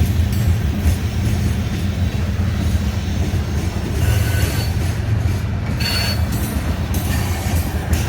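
Union Pacific coal train rolling past: a steady deep rumble of wheels on rail, with short high-pitched wheel squeals about four and six seconds in.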